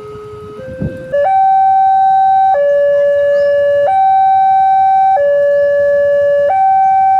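Electronic two-tone warning alarm switching on abruptly about a second in, very loud, alternating between a higher and a lower steady pitch roughly every 1.3 seconds, typical of a level-crossing alarm starting up. A short thump comes just before it starts.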